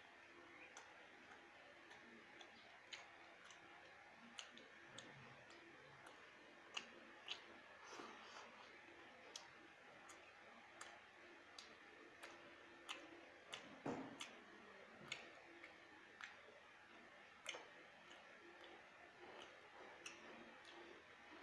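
Faint, irregular wet mouth clicks and smacks of a person chewing khichuri and mutton, about one or two a second, with a slightly louder muffled knock about fourteen seconds in.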